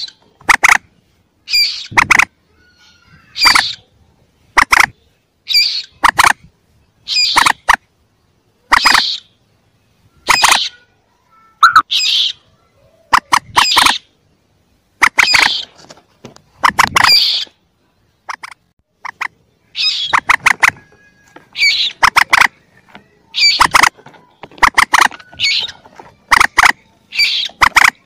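Recorded calls of young common moorhens played as a hunting lure: short clusters of quick, high calls repeating about every second or so, with silence between them.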